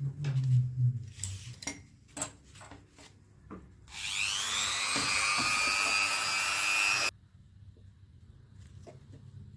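Several light knocks and clicks of handling, then a small electric drill spins up, its whine rising and levelling off, runs for about three seconds and stops suddenly.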